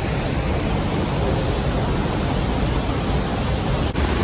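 A waterfall's steady rushing, close by and heavy enough that its spray soaks the trail, with the low rumble of wind and spray on the phone's microphone. It dips briefly near the end.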